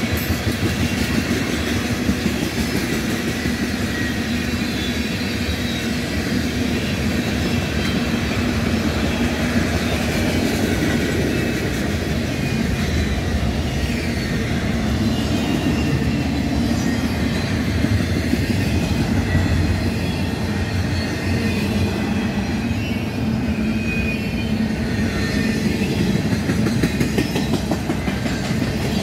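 Freight train cars rolling past close by: a steady rumble and clatter of steel wheels on rail that runs on without pause.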